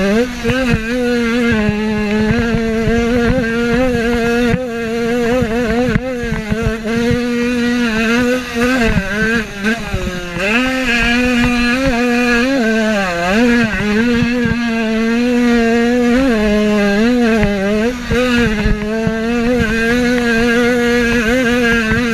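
Motocross bike engine running hard at high revs under race load. Its pitch mostly holds steady, with several brief drops and quick climbs back as the rider rolls off and shifts for corners.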